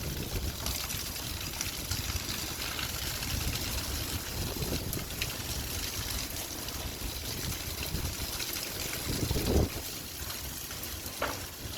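Light rain falling steadily with water trickling, a continuous hiss, and a brief low thump near the end.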